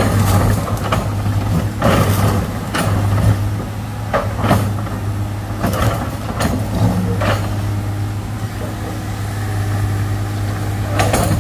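Excavator's diesel engine running steadily, with about a dozen irregular sharp knocks and scrapes as it works at hard rock.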